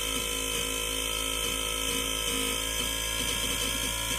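BOMA inrunner electric motor spinning freewheel with no load, a steady whine with an uneven pulsing stutter underneath, about twice a second and quickening near the end. This stuttery undertone is the unexplained fault the owner is chasing; a freewheeling motor should sound smooth at a steady speed.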